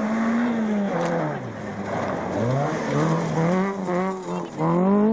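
Rally car engine revving hard, its note climbing and dropping repeatedly as the driver accelerates, lifts and shifts, with a sharp surge in revs near the end.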